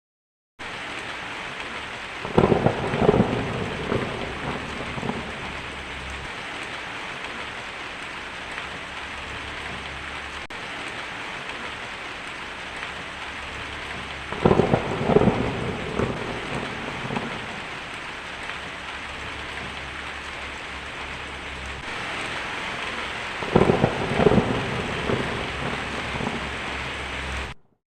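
Steady heavy rain with three rolls of thunder, a couple of seconds in, around the middle, and near the end; the thunder is the loudest sound. The sound starts abruptly just after the beginning and cuts off just before the end.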